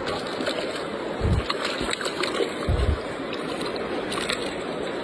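Water sloshing and splashing, with two dull low thumps about a second and a half apart.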